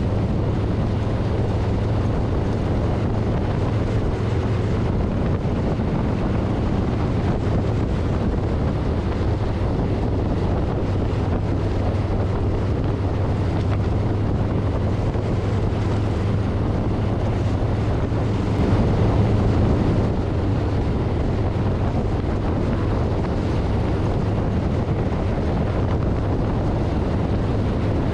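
Wind buffeting a handlebar-mounted camera microphone on a cruising 2024 Harley-Davidson Street Bob, over the steady low drone of its V-twin engine. The wind rush swells briefly louder about two-thirds of the way through.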